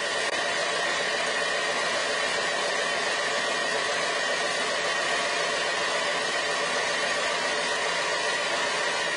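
An electric power tool running steadily: a constant whirring hiss with a faint high whine that stops just after the end.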